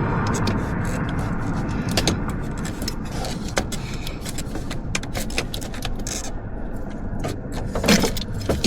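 Scattered clicks and light metallic clatter of hand tools being handled, over a steady low rumble that fades slightly, with a louder knock near the end.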